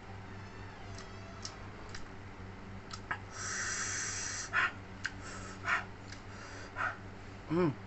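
Close-up eating sounds from a man eating spicy jengkol with rice: a long sharp intake of breath midway, then several short wet mouth smacks or sniffs, and a brief hummed "mm" near the end.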